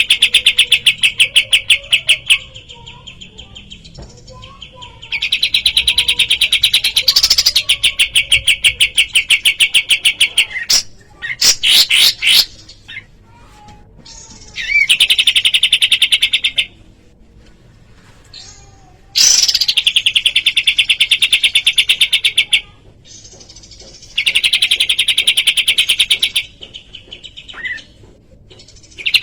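Kapas tembak songbird singing a fast, rattling trill of rapidly repeated high notes, in bursts of two to five seconds, about six times, with softer scattered chirps in the pauses between.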